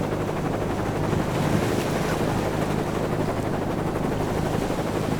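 Steady rushing of surf and wind over a low, steady hum.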